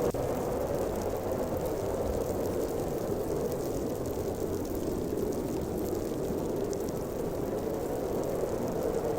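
Snowstorm wind blowing hard and steadily, a continuous deep howling rush of air with no gusts standing out.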